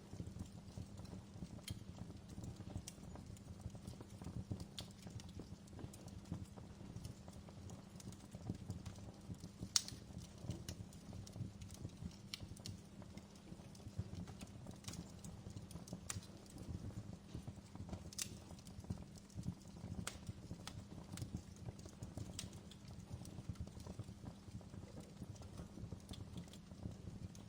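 Wood fire crackling in a fireplace: irregular sharp pops and snaps over a low steady rumble, with one louder pop about ten seconds in.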